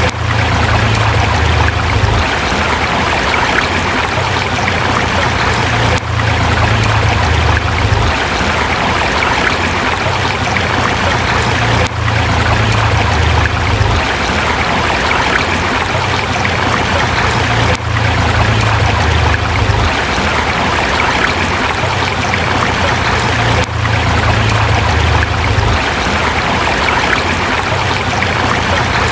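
Forest river rushing and splashing over rocks, a steady dense water noise with a deep rumble underneath. The level dips briefly about every six seconds.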